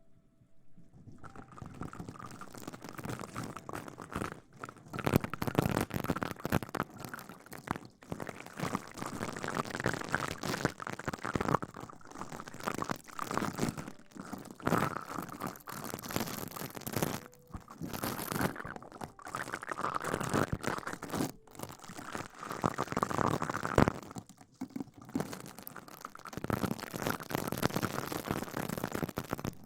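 Close-miked ASMR rustling and crinkling, a dense, irregular crackle with a few brief pauses, starting about a second in.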